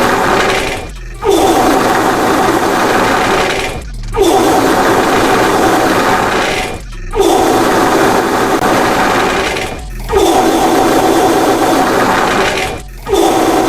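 Wet, diarrhea-like fart sound effect, looped: each long fart lasts about three seconds, and a short break comes between repeats.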